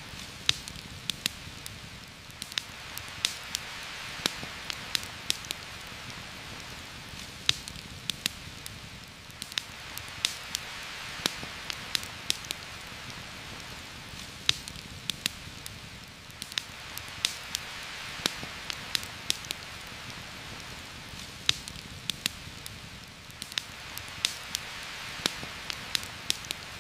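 Heavy rain falling steadily on forest foliage, swelling and easing every few seconds. A campfire crackles over it with frequent sharp, irregular pops.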